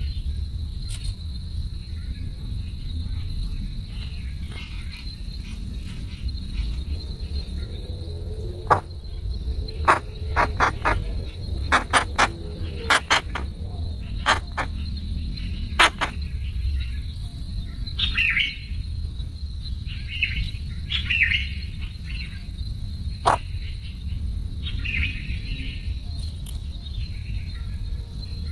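Crickets chirping in a steady high trill, with a run of sharp clicks around the middle and short high chirps in the later part.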